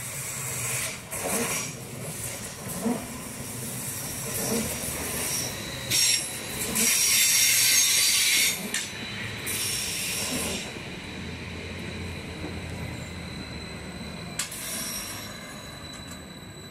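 Electric multiple-unit passenger train passing close by on curving track: wheels rumbling with a knock about every one and a half seconds, and a loud hissing screech of wheel squeal on the curve from about six to eight and a half seconds in, briefly again near ten seconds. After that the train runs more quietly with a thin steady whine.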